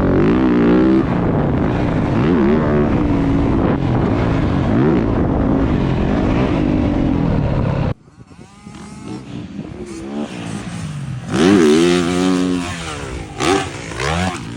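Motorcycle engines revving, pitch repeatedly rising and falling as the throttle is worked. The sound cuts off suddenly about eight seconds in to a quieter background. A bike revs up loudly again around eleven to twelve seconds in.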